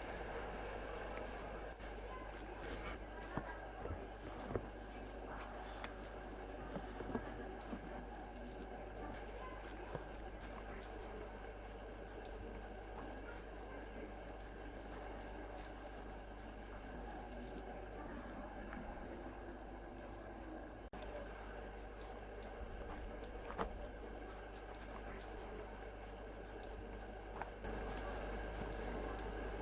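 A small songbird calling: a long run of thin, high, quickly down-slurred notes with sharper, higher notes mixed in, two or three a second, pausing for a few seconds midway before starting again.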